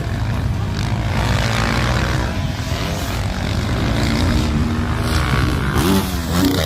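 Several motocross dirt-bike engines running hard at high revs. Near the end, one bike's pitch falls and rises again.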